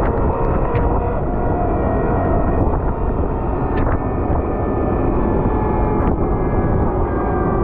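Volvo L110 wheel loader's diesel engine running steadily under load, with a dense low rumble and a few faint ticks.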